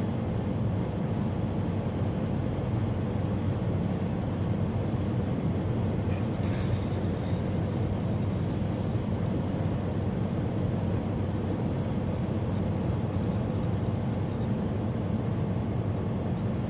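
Steady road and drivetrain noise inside a semi-truck cab cruising at highway speed, a low drone with tyre rumble. A faint thin high whine sits over it and drops slightly in pitch near the end.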